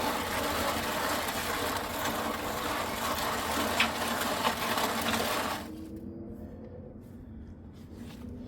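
Electric mixer churning wet concrete mix, a steady motor-driven grinding and sloshing that stops about six seconds in.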